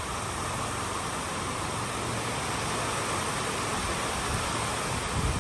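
Steady hiss of heavy rain falling, with a few low rumbles of wind gusting on the microphone near the end.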